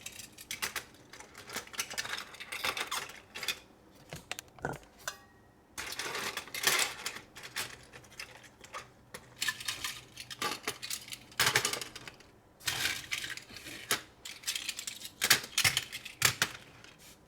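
Small hard plastic toy pieces clicking and clattering as they are handled and pressed into place on a plastic toy truck carry case, in irregular bursts of sharp clacks.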